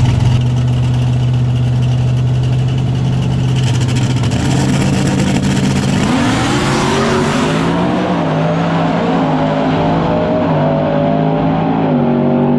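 Full-size pickup trucks drag racing: engines holding a steady note at the line, then about six seconds in they launch and accelerate hard, the engine pitch climbing and dropping through several gear shifts as they run down the track.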